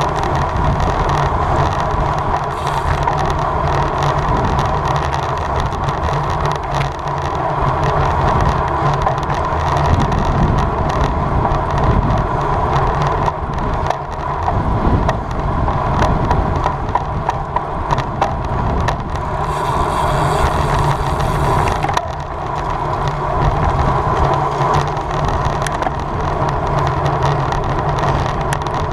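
Road bike ridden at race speed: wind rushing over the camera microphone and tyre noise on the pavement, with small clicks and rattles from the bike throughout.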